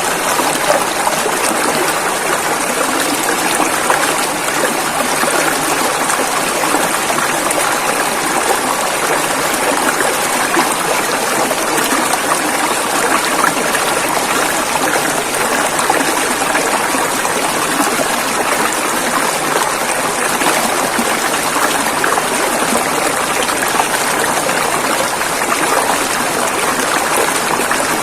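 A river running over rocks: a steady rush of water with a continuous trickling, unchanging throughout.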